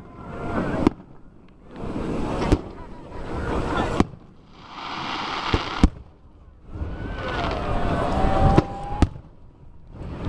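Fireworks display: aerial shells bursting in a series of sharp booms, one every second or two, with swells of rushing noise between the bangs.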